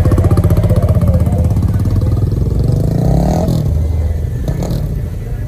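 Loud car engine running with a heavy pulsing beat, then revving up about three seconds in and dropping off again.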